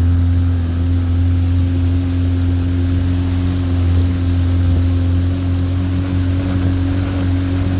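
A small boat's outboard motor running at a steady speed, pushing the boat upriver, with an even low drone and no change in pitch.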